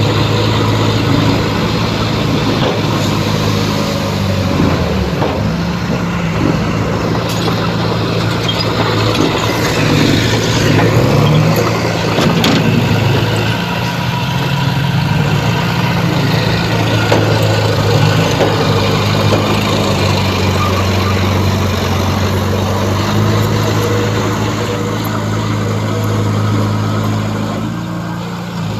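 Heavy diesel earthmoving machinery running, its engine note rising and falling under changing load, with a few short knocks along the way.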